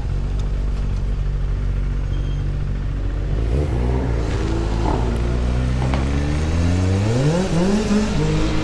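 Vehicle engine holding a steady pitch, then accelerating: from about halfway through its pitch climbs and drops back several times as gears change, with rising wind rush.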